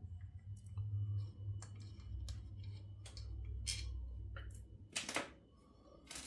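Scattered clicks and taps of small metal parts and tools being handled during a chainsaw teardown, a few sharper knocks about four and five seconds in, over a low hum that drops away near the end.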